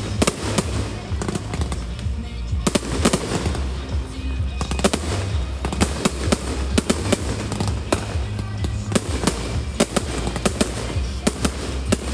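Fireworks display: a rapid, continuous run of sharp bangs and crackles from bursting shells, several a second. Music with a heavy steady bass plays underneath.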